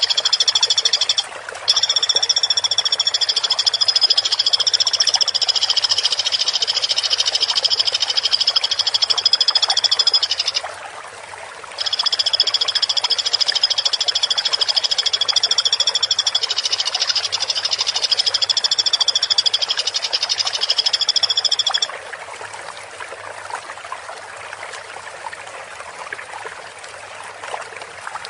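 Woodpecker (pelatuk) giving a long, continuous high-pitched trilling call, held for many seconds at a time with two short breaks, a little over a second in and about eleven seconds in; it stops about 22 s in. A soft trickling-water background lies under it and is all that is left at the end.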